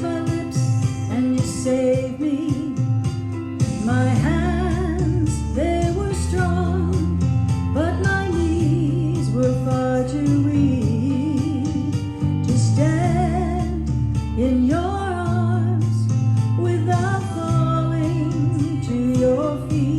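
A song: a solo voice singing with wide vibrato over instrumental backing, with a deep bass coming in about four seconds in.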